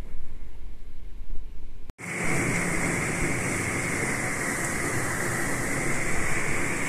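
Heavy rain pouring during a thunderstorm. For the first two seconds there is a low rumble of wind on the microphone. After a cut it becomes a steady, even hiss of downpour.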